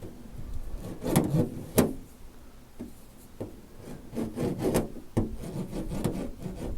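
Irregular rubbing and scraping by hand on the van's bare sheet-metal door panel, with a couple of sharp knocks, during the fitting of stick-on sound-deadening pads.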